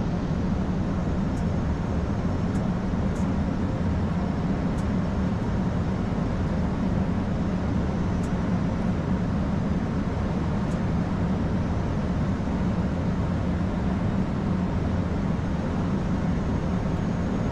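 Steady flight-deck noise in an Airbus A220-300 on final approach with the gear down and landing flap set: a constant rush of airflow over a low hum.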